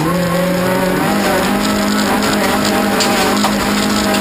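Toyota Corolla rallycross car's engine running hard under load, heard from inside the cabin. The engine note wavers at first and then holds a steady high pitch from about a second in.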